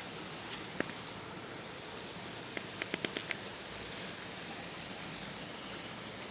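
Steady hiss of flowing water. A faint click comes about a second in, and a quick run of five or six light ticks follows about three seconds in.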